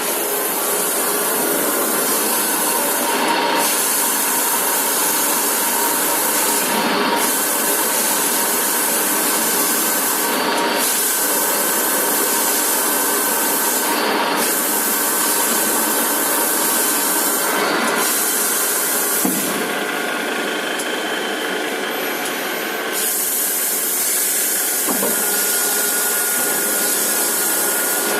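CNC H-beam drilling machine running, with a steady grinding rub and a high hiss. The hiss breaks off briefly about every three and a half seconds through the first part.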